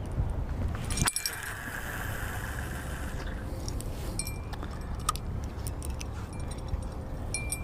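Fishing reel being worked: light metallic clicking from the reel, a sharp click about a second in followed by a brief whirr of line, then more bursts of clicking, over a steady low rumble.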